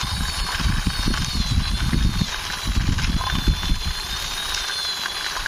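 Low, uneven rumbling and scraping as a toy army jeep is pushed by hand along a boundary wall, its wheels rolling over the wall's surface.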